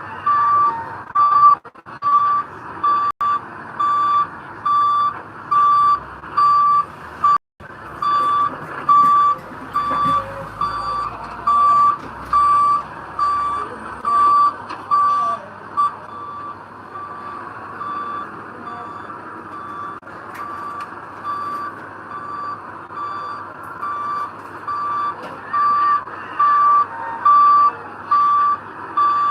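Reversing alarm on heavy earthmoving equipment, beeping about once a second in a steady single tone and fading for a while mid-way before growing louder again. A diesel engine runs underneath.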